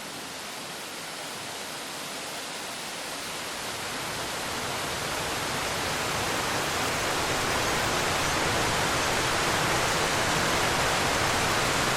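Fast-flowing river water rushing steadily, growing louder over the first eight seconds or so and then holding level.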